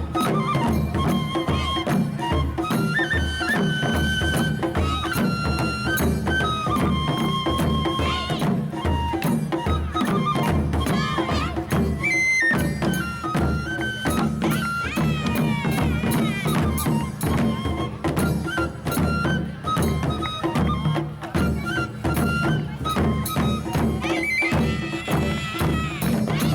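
Japanese taiko drums beating a steady rhythm under a folk-song melody of long held notes that step up and down.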